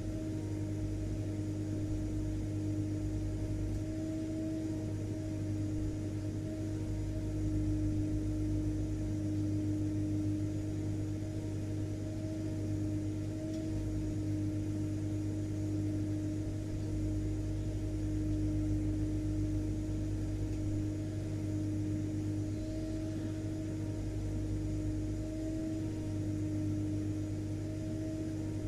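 Vacuum cleaner running continuously, a steady motor hum over a constant rushing noise.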